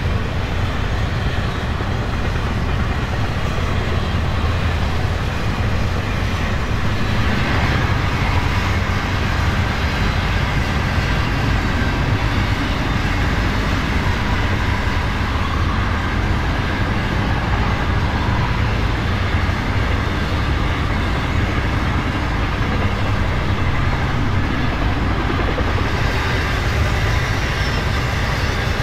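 Union Pacific freight train rolling past: a steady rumble from the diesel locomotives and the steel wheels running on the rails, with more rail noise coming in about seven seconds in.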